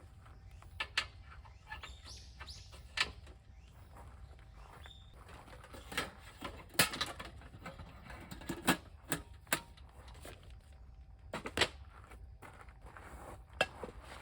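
Irregular sharp clicks and knocks, the loudest about halfway through, with a few faint bird chirps early on.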